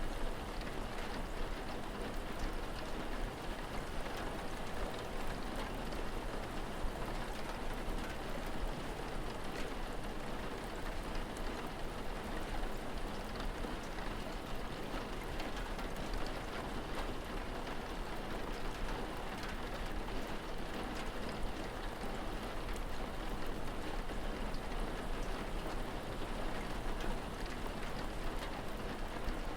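Steady rain falling, with faint scattered drop ticks and a constant low rumble underneath.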